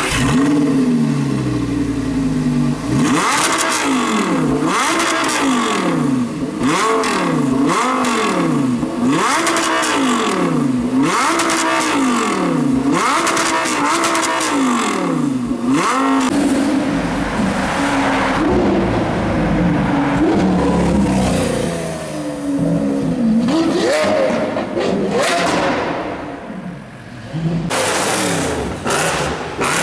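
A high-performance car engine is revved over and over, its pitch climbing and dropping back about every second and a half, with sharp cracks between the revs. Past the middle the revving becomes more irregular.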